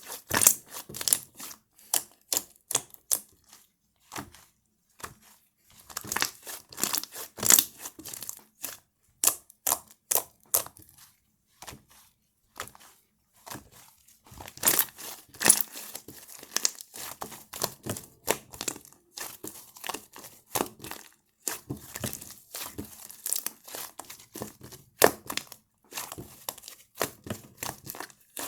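Slime being pressed and stretched by hand over angel clay, giving fast runs of crackling, popping clicks, with brief pauses between handfuls.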